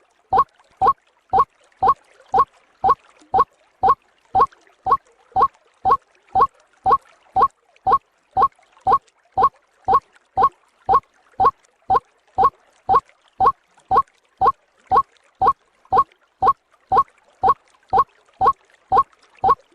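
White-breasted waterhen (ruak-ruak) calls from a bird-lure recording: short, upward-hooking notes repeated evenly at about two a second.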